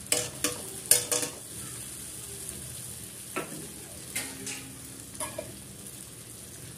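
Chicken legs and masala, with cashew paste just added, sizzling steadily as they fry in a metal kadai. A metal utensil clinks sharply against the pan several times, mostly in the first second or so, then a few more times later.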